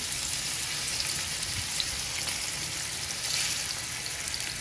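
Pork cutlets sizzling steadily in hot oil in a frying pan, just after being laid in.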